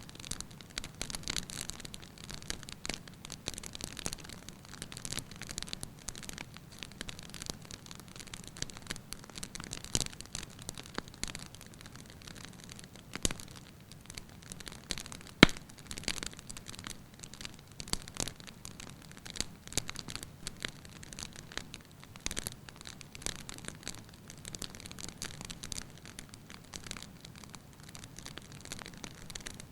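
Wood fire in a fireplace crackling, with frequent small irregular pops and snaps over a soft low rush of flame; one sharp, louder pop comes about halfway through.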